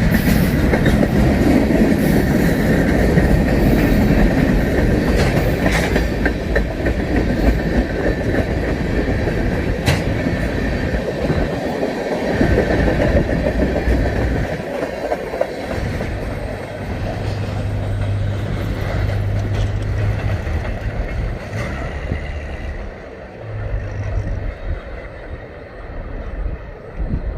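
Freight train cars rolling past on the rails, wheels clicking over rail joints with a thin squeal from the wheels. It grows fainter and patchier over the last several seconds as the train moves off.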